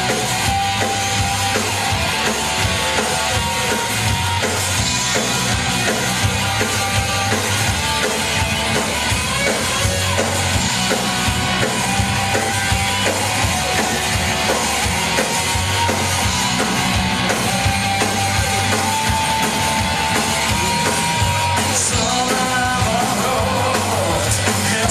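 Live punk rock band playing loud, dense music with a drum kit keeping a steady beat.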